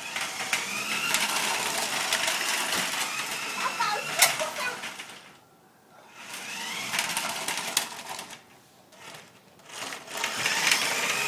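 Battery-powered toy monster truck running along plastic toy train track: a small electric motor whirring with a clatter of wheels and track. The sound fades out twice, about five seconds in and again near the end, before coming back.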